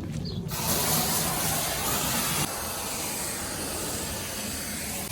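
Foam gun spraying soapy foam onto a car, a steady hiss that starts about half a second in and drops to a lower, steady hiss about halfway through.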